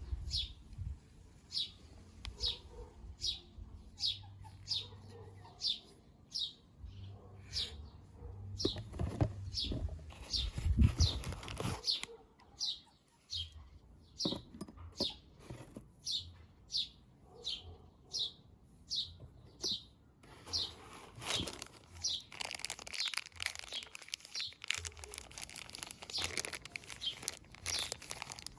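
A small bird chirping over and over, short high chirps that fall in pitch, one or two a second. Rustling and knocks come in underneath, loudest around the middle.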